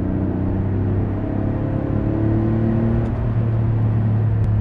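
Porsche 964 Carrera's air-cooled flat-six heard from inside the cabin on the move: a steady engine drone whose pitch climbs a little a second or two in.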